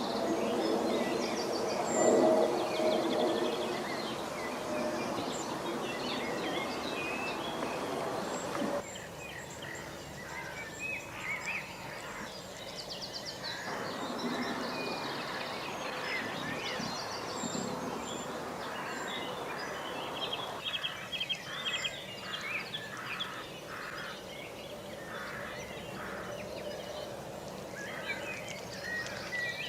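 Small songbirds chirping and trilling on and off over a steady outdoor background noise, with quick runs of repeated notes in the last third. A low pitched droning tone sounds under it in the first few seconds.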